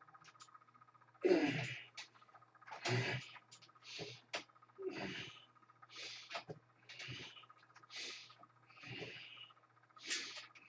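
A man breathing hard during exercise repetitions: a sharp, forceful exhale about once a second, the first the loudest.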